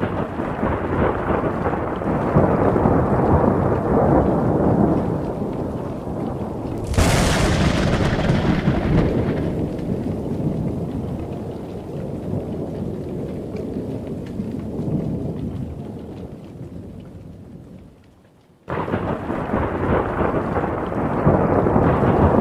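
Thunder rolling in a rainstorm. About seven seconds in comes a sharp, close crack, followed by a long rumble that slowly fades. The sound then cuts off abruptly, and a new roll of thunder starts near the end.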